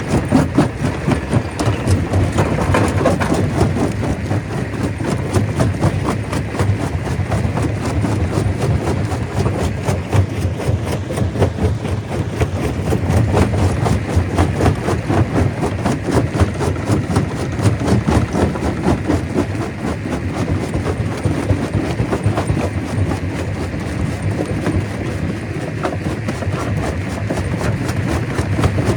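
Stone crusher running, with a steady heavy mechanical noise and a constant rapid clatter of rock being broken and tumbling through the machine.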